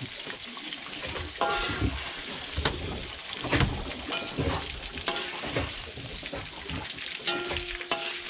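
Squid rings sizzling in hot oil in an aluminium wok. A metal slotted spatula scrapes and knocks against the wok about eight times as the fried squid is scooped out, and the wok rings briefly after some of the knocks.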